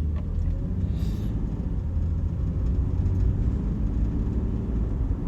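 A steady low rumble, with a brief hiss about a second in.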